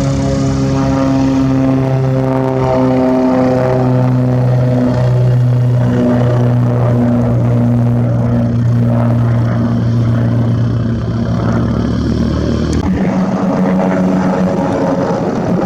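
Propeller airplane's engine running with a steady, loud drone; the tone shifts about thirteen seconds in.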